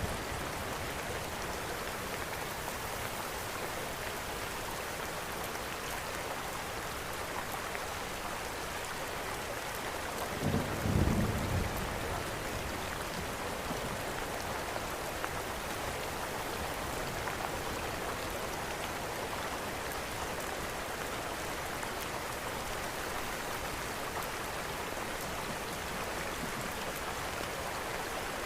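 Steady rain falling, with a brief low rumble of thunder about ten seconds in.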